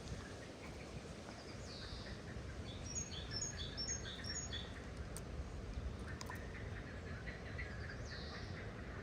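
Wild birds singing: a quick run of about five short, high, falling chirps about three seconds in, with a single swooping call before it and another near the end. A steady low rumble of outdoor background noise runs under them.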